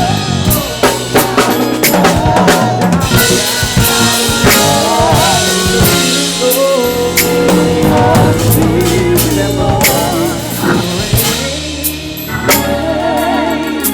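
Live gospel band playing an instrumental stretch, led by a drum kit with busy snare, rimshot and kick-drum strokes over sustained organ and low bass notes.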